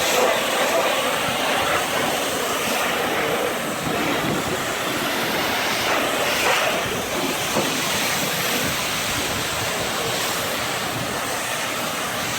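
Pressure washer spraying water onto a truck, a steady loud hiss of spray.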